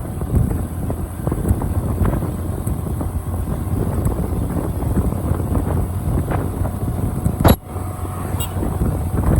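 Riding noise from a moving motorcycle: wind buffeting the microphone over a low, steady rumble. One sharp knock comes about seven and a half seconds in.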